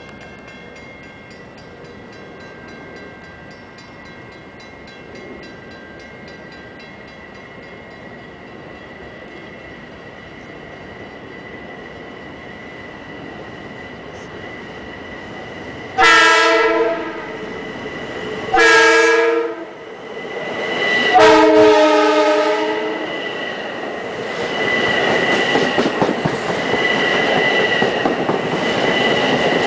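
Long Island Rail Road electric commuter train approaching with a faint steady hum and high whine, then sounding its horn three times (a long blast, a short one, then a longer one). From about 24 s in, the cars rush past close by, the wheels clattering on the rails.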